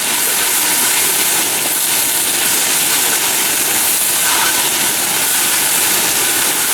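Yaki udon frying on a hot iron plate, sizzling steadily with a loud, even hiss.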